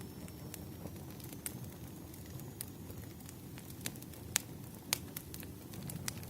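Wood fire crackling in a fireplace: irregular sharp pops and snaps over a steady low rumble of the burning fire, with two louder pops a little past four seconds in.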